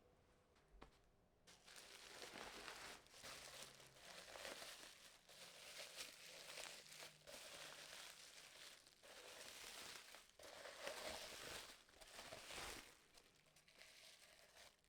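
Faint crinkling and rustling of something being handled, with many small crackles, starting about a second and a half in and dying down near the end.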